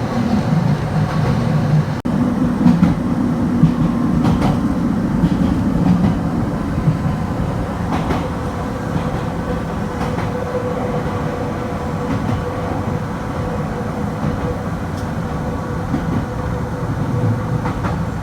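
Kobe Electric Railway train running along the track: a steady rumble of wheels and motors with occasional sharp clicks over rail joints. A steady motor tone comes in about halfway through.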